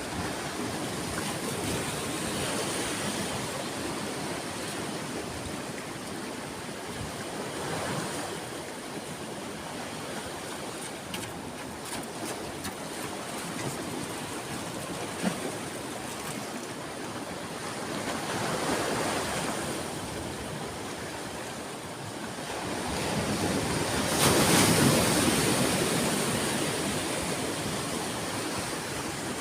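Ocean surf: waves rolling in and breaking on a beach as a continuous wash that swells and ebbs, with a bigger wave breaking loudest near the end.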